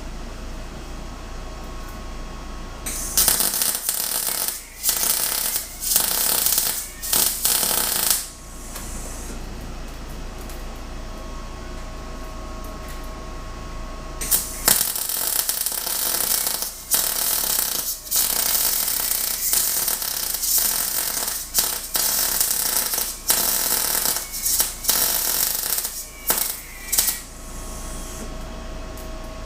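Arc welding in short runs: a crackling that starts and stops every second or so, in two spells, one about three seconds in and a longer one from about fourteen seconds in.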